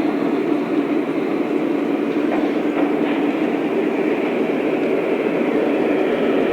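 Lionel O-scale model train running on its track: a steady, even rumble of the wheels rolling on the rails and the locomotive motors.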